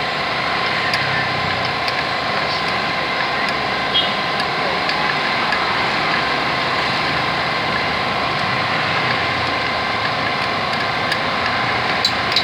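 A small engine running steadily at idle, with a faint steady whine over it. A few light clicks come near the end.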